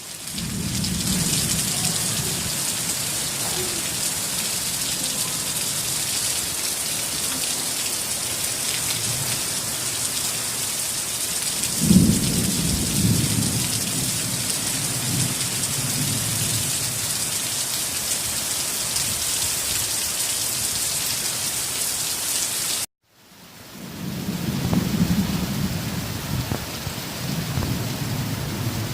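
Heavy rain pouring steadily, with rolls of thunder. About twelve seconds in, a sharp thunderclap cracks and rumbles away. The sound cuts out briefly about two-thirds of the way through, then the rain and a low rumble of thunder come back.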